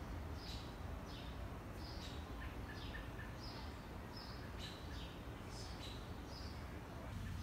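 A small bird chirping over and over: short high calls that drop in pitch, about one every half second, over a low steady background rumble.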